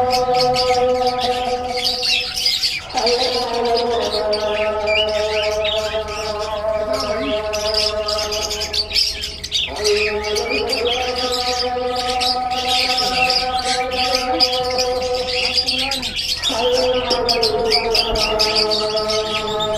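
Many small cage birds chirping and twittering together, a dense, busy chatter. Under it runs a steady droning tone that breaks off and starts again about every six or seven seconds.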